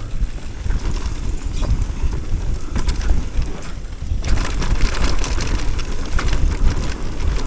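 Mountain bike riding down a dirt trail: wind buffets the microphone with a steady low rumble while the bike rattles and clatters over bumps, most busily from about four seconds in.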